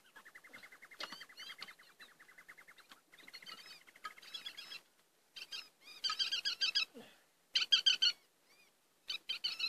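Birds calling: repeated short chirps, a fast trill over the first few seconds, and louder calls about six and eight seconds in.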